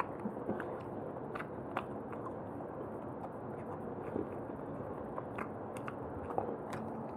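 Close-miked chewing of roast chicken, with small irregular wet clicks and smacks from the mouth and from meat being pulled off the bone by hand.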